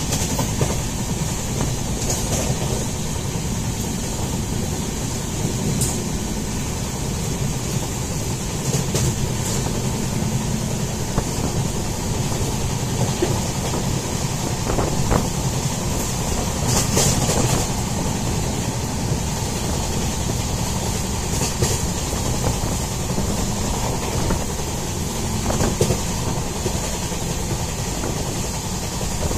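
Indian Railways passenger train running steadily, its rumble heard from inside the coach, with scattered sharp clicks and knocks from the running train.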